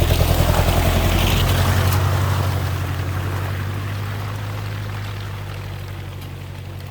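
The 1997 Jeep Cherokee XJ's 2.5 VM Motori turbo diesel running at steady low revs. Over it comes a rush of splashing water that starts suddenly just before and fades away over several seconds.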